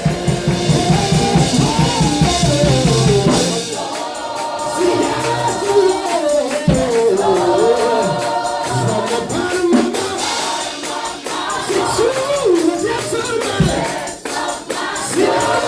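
Live gospel praise and worship music: voices singing a melody over tambourine and other percussion, with a bass line that drops out about three and a half seconds in.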